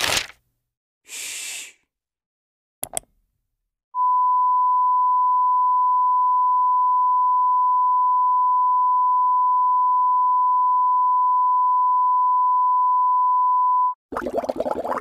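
A steady electronic beep tone held at one unchanging pitch for about ten seconds, like a censor bleep or test tone. It is preceded by two short hissing bursts and a click, and cut off near the end by a dense crackling noise.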